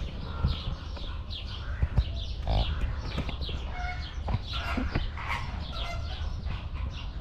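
Small birds chirping throughout in many quick, high, falling chirps, over a low rumble with a few short thumps.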